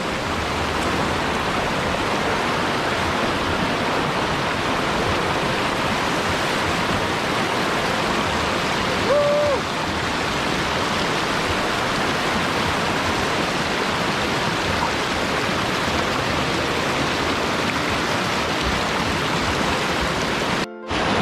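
River water rushing steadily over rocks. A short high call rises over it about nine seconds in, and the sound cuts out for a moment near the end.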